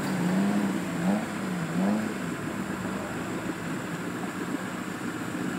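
Off-road 4x4's engine working in deep swamp water: the revs rise and fall about three times in the first two seconds, then hold steady.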